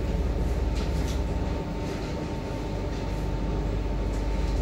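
Inside an 8520 class DART electric train running along: a steady low rumble of the wheels and running gear, with a faint constant whine above it.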